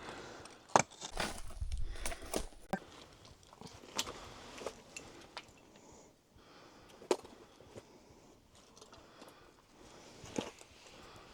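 Irregular footsteps, scuffs and knocks of boots on rock while scrambling down a rocky slope, a few sharp clicks standing out among quieter shuffling.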